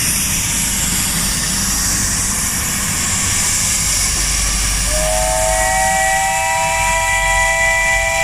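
Pacific-class steam locomotive hissing steam. About five seconds in, its whistle starts with a chord of several tones and is held.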